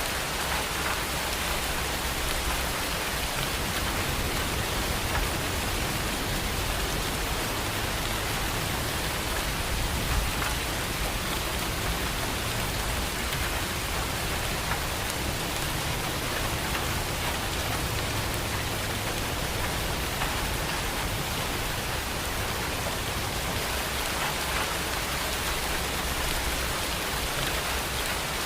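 Steady rain falling on surfaces, a dense even patter of drops with no clear thunder.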